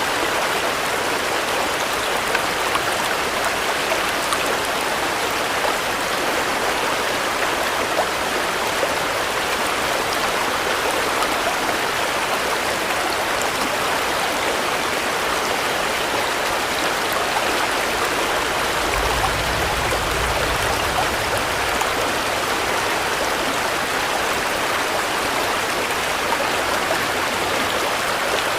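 Steady rain, an even hiss of countless drops, with a brief low rumble about two-thirds of the way in.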